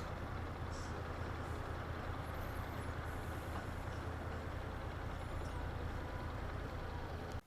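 Motorcycle engine running steadily, a low even rumble, until the sound cuts off suddenly at the end.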